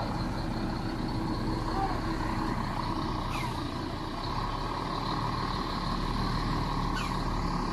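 Heavy truck engine running steadily, with road traffic around it. Two short high chirps sound about three seconds in and again near the end.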